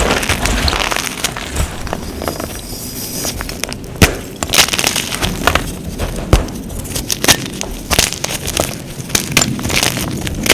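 Crunchy glittery powder blocks being crushed and crumbling, a dense run of crackling crunches with sharper snaps about four and six seconds in.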